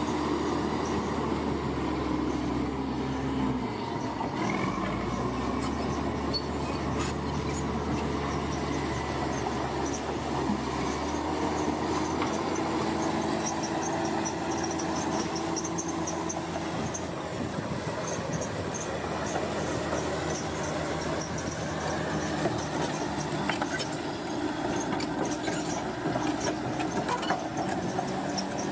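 Crawler bulldozer's diesel engine running under load, with the squeal and clatter of its steel tracks. The engine note shifts about four seconds in and again around eleven seconds.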